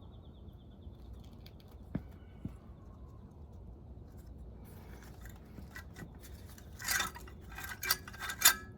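Small metal parts and tools clinking and scraping as they are handled during engine disassembly: two light taps about two seconds in, then a run of sharper clinks in the last few seconds, loudest near the end.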